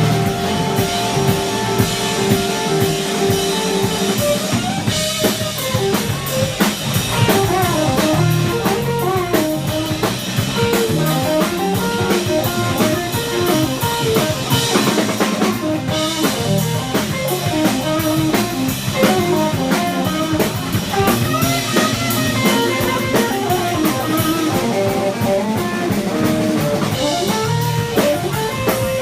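Live rock band playing an instrumental jam, with guitar over drum kit. The guitar holds long notes at first, then runs fast lines from about four seconds in.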